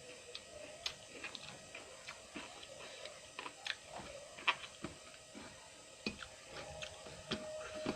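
A person chewing food close to the microphone: irregular wet smacks and crisp crunching clicks, several a second.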